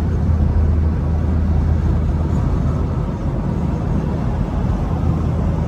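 BMW F32 coupe cruising at a steady speed: an even low engine drone with road noise, with no revving.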